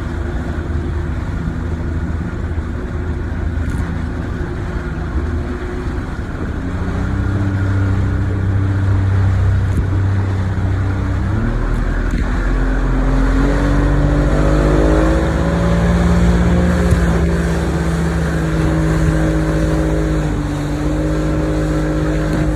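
Motorboat engine running under way, then throttled up about halfway through, its pitch climbing for a few seconds before settling at a steady higher speed, with a constant rush of wind and water underneath.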